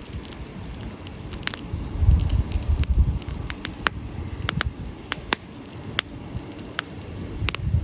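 Wood campfire crackling, with sharp irregular pops a few times a second over a soft hiss. A low rumble swells about two to three seconds in.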